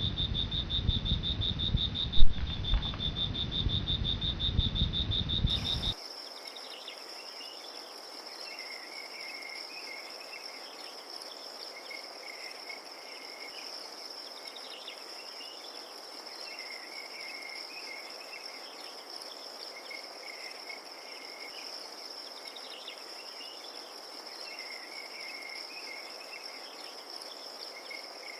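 Crickets trilling. For the first six seconds a finely pulsed trill sits over a low rumble. It then cuts abruptly to a higher, steady trill with scattered softer chirps.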